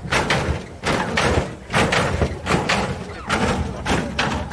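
A quick series of heavy thumps, a little over two a second, over a steady low rumble.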